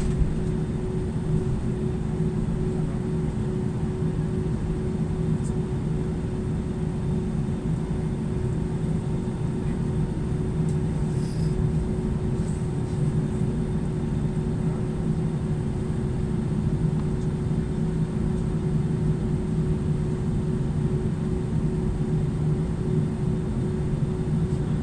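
Steady drone heard inside the cabin of an Airbus A320-214 on the ground after landing: a constant low hum with a steady mid-pitched tone running through it, unchanging throughout.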